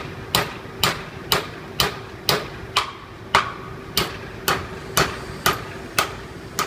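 Hammer repeatedly striking a 1/2-inch steel stud welded to a carbon steel plate, about two blows a second, each with a short metallic ring: the stud weld being tested.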